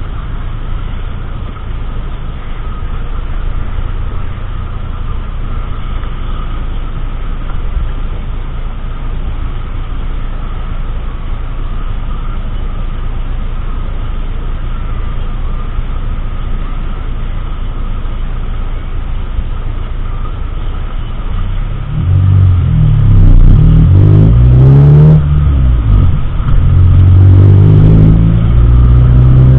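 Car engine and road noise heard from inside the cabin, a steady low rumble while driving. About 22 seconds in it grows louder and the engine's pitch rises repeatedly as the car accelerates.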